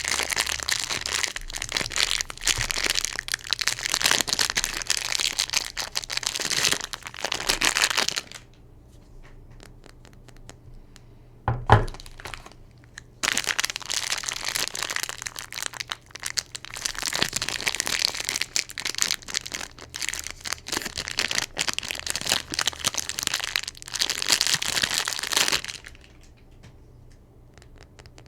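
Soap bar wrappers being unwrapped by hand, crinkling, crackling and tearing in two long stretches, with a single knock in the quiet gap between them.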